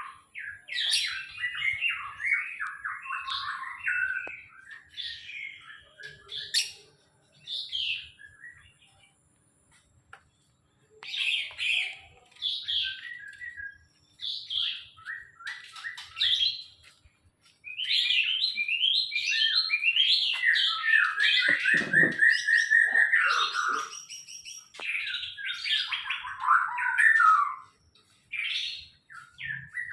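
Songbird singing in bursts of rapid chirps and trills, broken by short pauses, with a quieter lull and then a long unbroken run of song.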